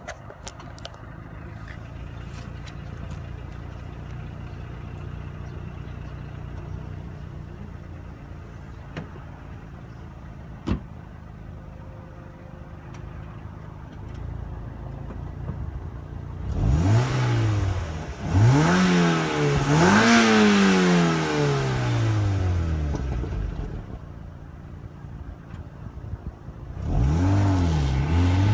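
2008 Mazda MX-5's four-cylinder engine through its stock exhaust, idling steadily for about sixteen seconds. It is then revved several times in quick climbs and falls of pitch, and revved again near the end.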